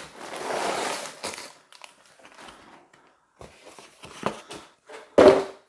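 A Lego set's cardboard box and plastic parts bags being handled. Rustling for the first second or so, then a few scattered knocks, with the loudest a thump near the end.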